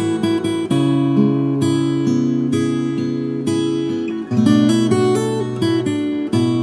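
Acoustic guitar playing slow, relaxing music, plucked and strummed chords that ring out and change every second or so.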